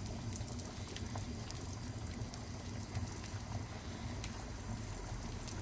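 Beef bone broth boiling in a cast-iron cauldron over a wood fire: a steady low rumble with scattered small pops and crackles.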